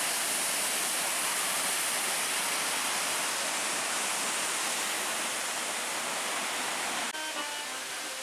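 Large waterfall pouring, a steady rushing noise of falling water. About seven seconds in it cuts off abruptly and music starts.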